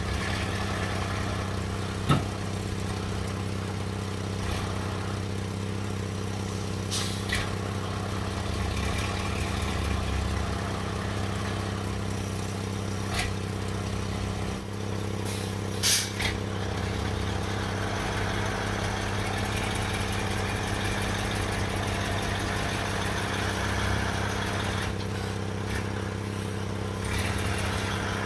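A heavy vehicle's engine running steadily at low revs, with a few short knocks; the sharpest come about two seconds in and again around sixteen seconds.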